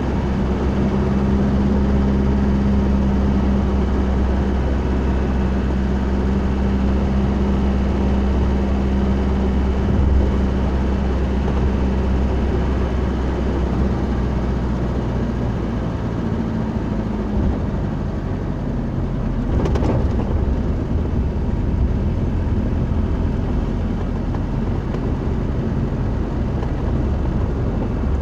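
Vehicle engine and road noise heard from inside the cabin, a steady hum whose pitch shifts about halfway through, with one brief sharp knock near the end.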